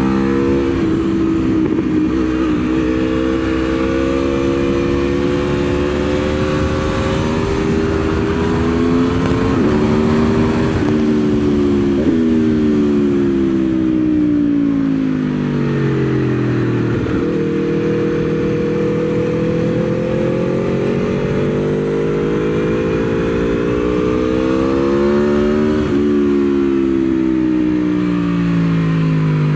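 Aprilia Tuono V4's V4 engine heard onboard at track speed, with wind rush underneath. The revs climb with quick upshifts about ten and twelve seconds in, fall steadily while it slows for a corner, then pull up again for a long run before dropping off near the end.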